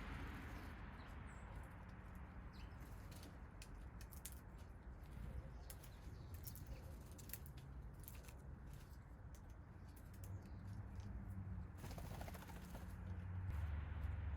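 Small backyard birds feeding: scattered short clicks and taps, with some wing flutter, over a low steady rumble that grows louder near the end.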